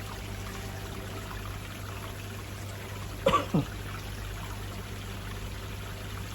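Water splashing and trickling steadily down through a koi pond's bakki shower filter, over a steady low hum. About three seconds in comes one brief voice-like sound that falls in pitch.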